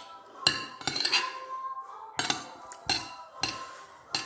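Cutlery clinking and scraping against a plate of rice and stew, about six separate clinks.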